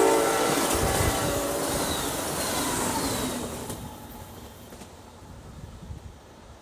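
Train passing and moving away, its rolling noise fading out over about four seconds.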